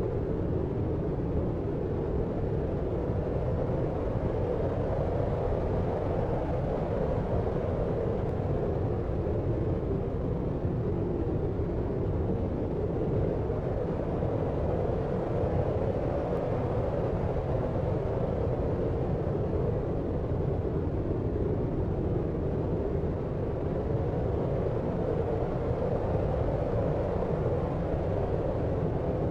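Steady deep noise made for sleep: a dark, low hiss and rumble that holds even throughout, with no separate sounds or changes.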